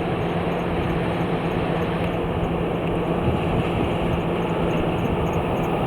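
Cadillac Northstar 4.6-litre DOHC V8 of a 1993 Allante running steadily, with a constant low hum under an even rush of noise.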